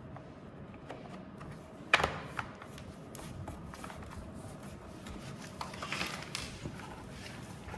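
Small clicks and rustles of parts being handled and fitted into a belt sander's plastic housing during reassembly, with one sharp click about two seconds in and a burst of handling noise near six seconds.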